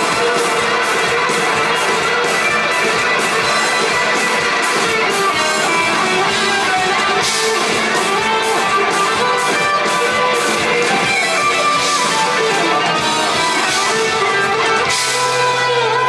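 Rock band playing live: an instrumental passage led by electric guitar over steady drums, loud and continuous.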